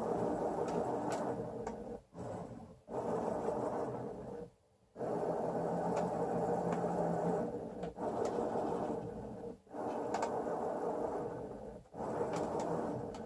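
Robotic chess computer's motorised arm running, its motors whirring in runs of one to three seconds with brief stops in between as the electromagnetic head moves pieces across the board, with a few faint clicks.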